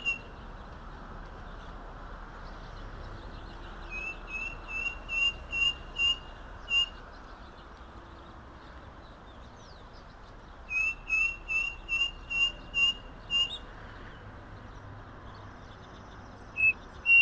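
Striped cuckoo singing: two series of about eight short, clear whistled notes, roughly three a second. Each note rises slightly and each series edges gradually higher in pitch. Two single whistled notes follow near the end.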